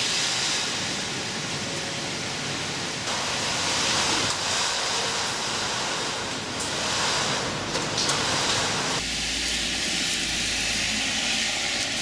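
Heavy rain pouring down in a dense, steady hiss, its tone shifting abruptly twice.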